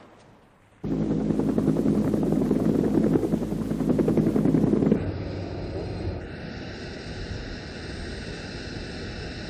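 A loud engine with a fast pulsing beat starts suddenly about a second in. About halfway through it cuts to a quieter, steady engine drone with a high steady whine.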